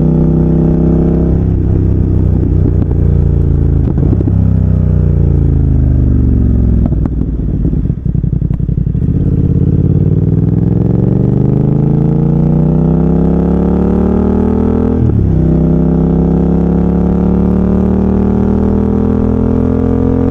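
BMW F900R's parallel-twin engine through an aftermarket slip-on exhaust. Revs fall away for several seconds with irregular crackles as it slows, then the bike pulls up through the revs, shifts up about three quarters of the way through and climbs again.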